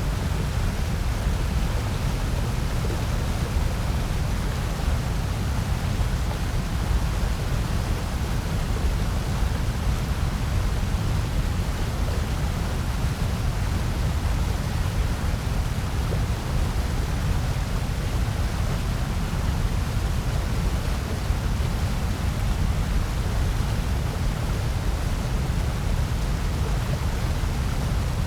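Steady electronically generated noise of the kind sold as white noise, heaviest in a deep low rumble with a softer hiss above it.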